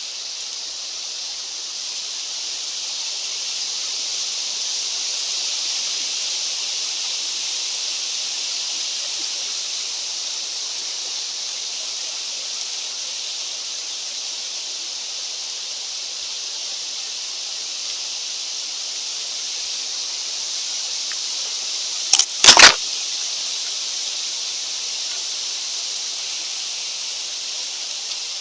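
Steady high hiss of mountain wind, swelling a little and easing again. About three-quarters of the way through, two or three sharp, loud knocks come close together.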